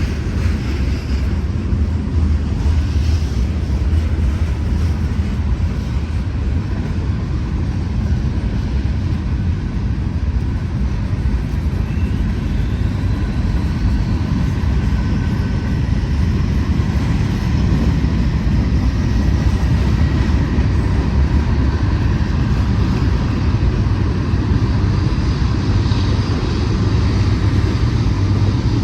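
Loaded freight cars of a Norfolk Southern manifest train rolling past: a steady low rumble of steel wheels on rail, with faint thin squealing tones above it.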